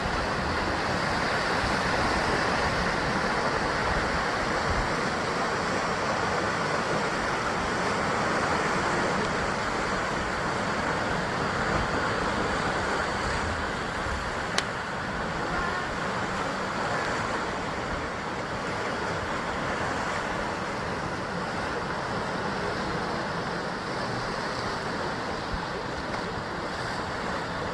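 Sea surf washing and breaking continuously against a rocky basalt shore, swelling and easing gently. A single short sharp click is heard about halfway through.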